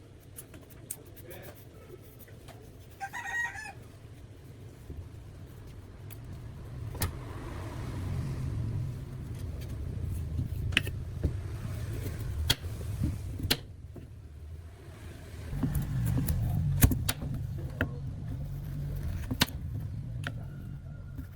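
Scattered clicks and knocks over a low rumble, with a rooster crowing briefly about three seconds in.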